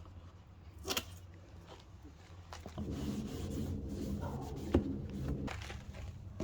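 Handling noises during cleaning: a sharp knock about a second in, then a few seconds of rubbing noise with a sharp click in the middle of it.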